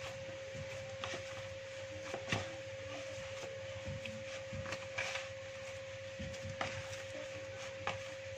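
Hands kneading and handling soft yeast dough: light scattered knocks and rubbing, the sharpest knock about two seconds in, over a steady faint hum.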